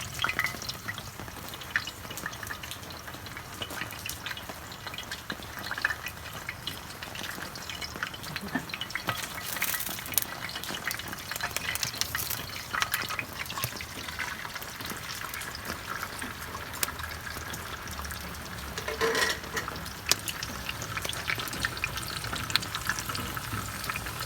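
Oil frying in a pan: a steady sizzle dotted with many small crackles and pops.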